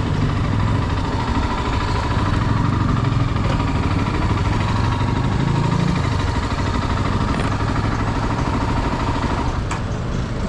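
Honda XR 250 Tornado's single-cylinder four-stroke engine running steadily, with a sharp click near the end.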